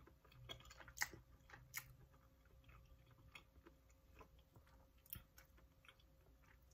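Quiet chewing, with faint, irregular mouth clicks; the sharpest click comes about a second in.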